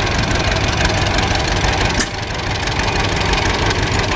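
Antique farm tractor engine running slowly and steadily as it drives past, with an even, rapid beat of exhaust pulses. There is a brief dip in level about halfway through.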